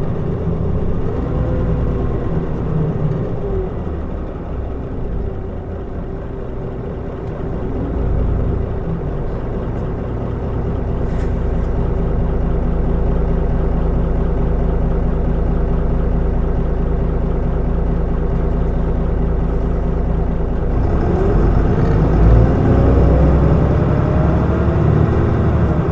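Mitsubishi Fuso Aerostar city bus (QKG-MP35FP) under way, its six-cylinder turbodiesel and drivetrain running with a steady rumble. There is a whine that rises and falls in the first few seconds, even cruising through the middle, and a whine rising again as the bus pulls away near the end.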